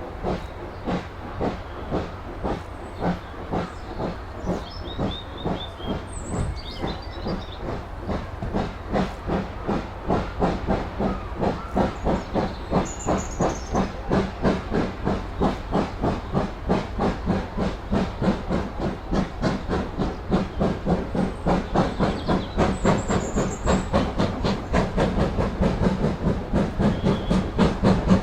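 Steam locomotive working hard, its exhaust chuffing in a steady beat that quickens and grows louder as the engine picks up speed.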